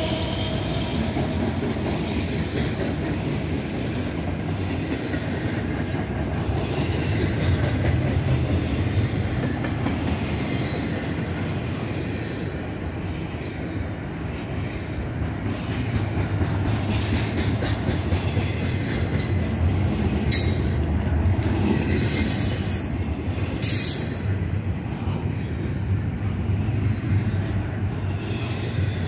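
Double-stack intermodal well cars rolling past with a steady rumble of steel wheels on rail and clacking over the joints. About 24 seconds in, a brief high-pitched wheel squeal is the loudest moment.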